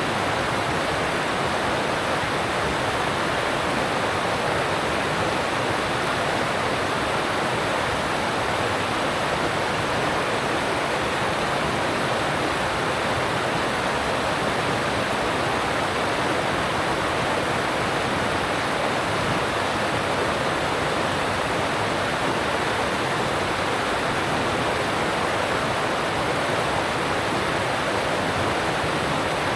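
Alpine stream rushing over rocks, a steady, even rush of water with no change throughout.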